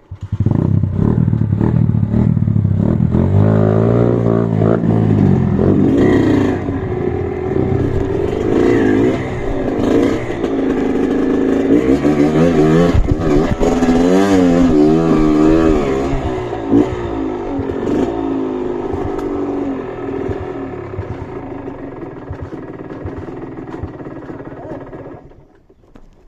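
Off-road trail motorcycle engine revving hard, its pitch rising and falling again and again, then dying away over the last few seconds.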